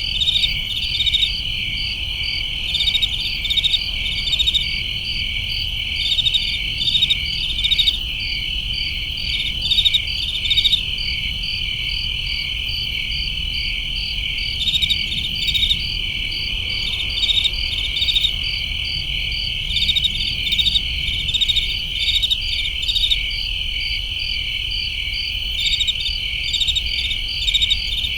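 Chorus of crickets chirping at night: a steady high trill with quick, rhythmic chirps layered over it in repeating clusters.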